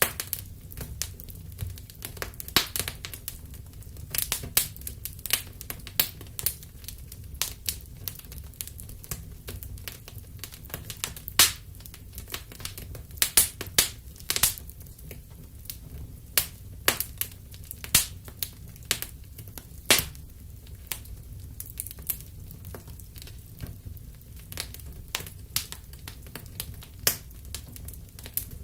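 Wood fire crackling in a fireplace: irregular sharp pops and snaps over a steady low rumble of the flames, the loudest pops about 11, 14, 18 and 20 seconds in.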